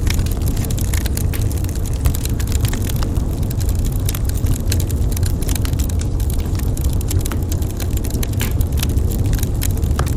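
Wood fire crackling in a fireplace: many quick, irregular pops and snaps over a steady low rumble.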